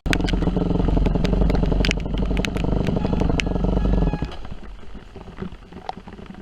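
Yamaha WR250F dirt bike's single-cylinder four-stroke engine pulling hard at high revs with sharp clicks over it, then backing off to a much quieter run about four seconds in.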